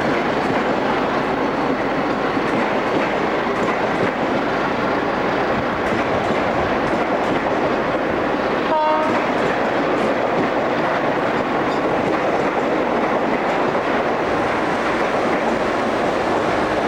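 Train running along the track, a steady loud rumble and rattle, with one short horn toot about nine seconds in.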